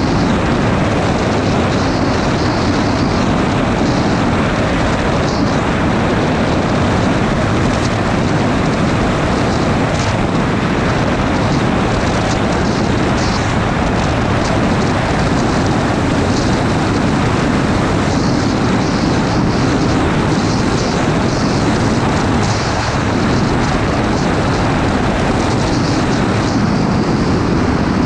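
Sport motorcycle riding steadily at speed: a constant rush of wind noise over the camera's microphone mixed with the engine's drone.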